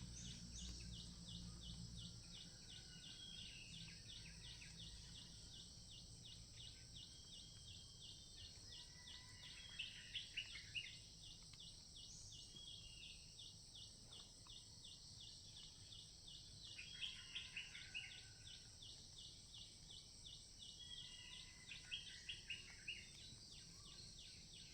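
Faint forest ambience with insects chirping in a fast, even pulsing train over a steady high hum. A bird gives short bursts of calls three times, about ten, seventeen and twenty-two seconds in.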